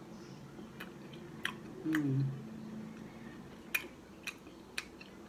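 Chewing a mouthful of fried burrito, with scattered crisp crunches and wet mouth clicks. A short hummed "mm" comes about two seconds in.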